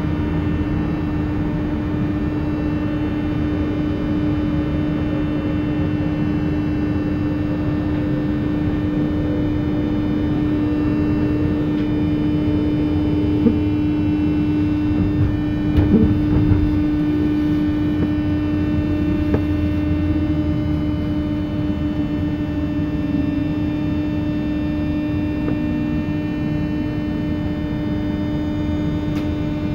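Running sound inside a JR West 201 series chopper-controlled electric train: a steady hum with a faint tone falling slowly over the first half, and a few brief knocks about 16 seconds in.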